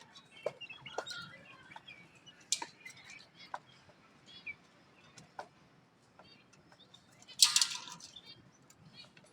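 Birds chirping in short calls among scattered sharp clicks, with one louder call lasting about half a second a little past the middle.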